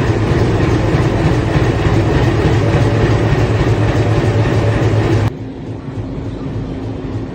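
Train running at close range: a loud, steady rumble with some wheel clatter. About five seconds in it cuts off abruptly to a quieter steady hum with a faint steady tone.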